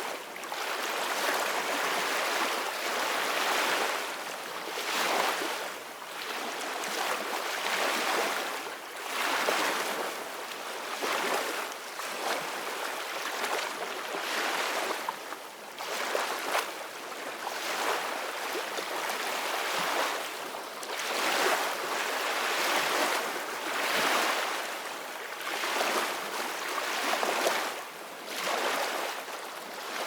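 Ocean waves breaking and washing on a beach, a continuous rush of surf that swells and ebbs every few seconds.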